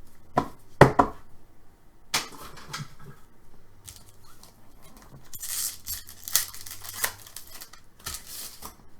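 Trading card pack handling: a few sharp knocks as cards are handled, then the crinkly tearing of a foil card pack wrapper, twice in the second half.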